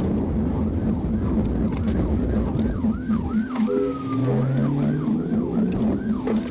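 Police siren on a pursuing patrol car yelping in fast up-and-down sweeps, over the car's engine and road noise.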